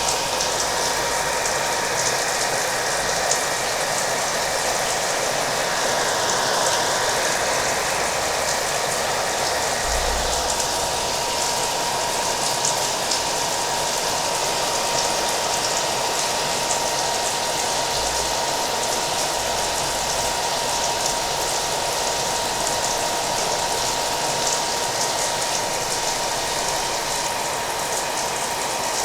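A hair dryer running steadily, blended with rain falling. It is a continuous, unchanging rush with a thin constant whine.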